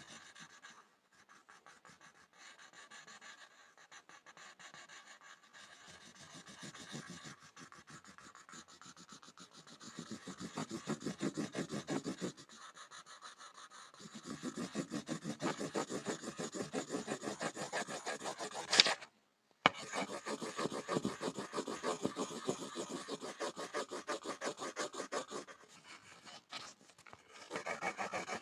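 Pencil scribbling on a board: rapid back-and-forth scratching strokes, soft at first and louder in long runs from about ten seconds in. A sharp tap and a brief break come about two-thirds of the way through.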